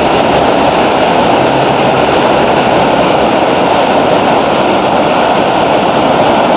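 Floodwater from the swollen Moira River pouring over the Yardman Dam at flood crest: a loud, steady rush of water.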